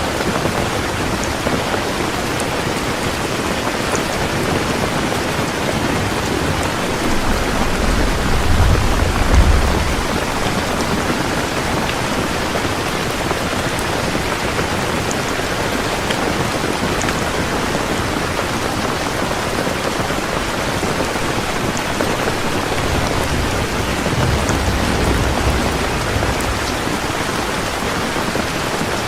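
Heavy rain falling steadily, with two low rolls of thunder: one about eight seconds in, the loudest moment, and a longer, softer one near the end.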